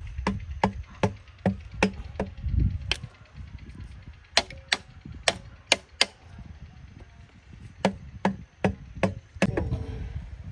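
Repeated sharp hammer taps on engine parts, in three runs of five or six strikes at about two to three a second, some blows ringing faintly like metal.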